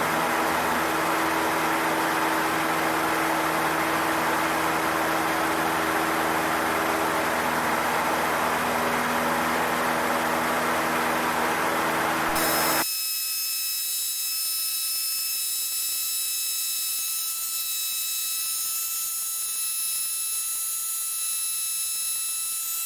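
Cessna 152's four-cylinder Lycoming engine running steadily at climb power just after takeoff, a broad drone with a few steady hum tones. About halfway through the drone cuts off abruptly, leaving a thin steady hiss with faint high whines.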